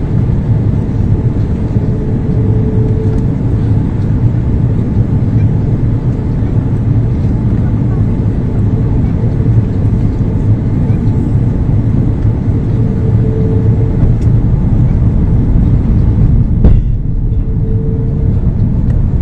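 Steady low rumble of airliner cabin noise, engines and rushing air heard from inside the cabin during the descent. One sharp knock about three-quarters of the way through.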